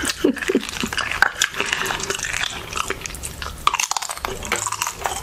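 Close-miked eating sounds: chewing with wet mouth noises and many small clicks and lip smacks.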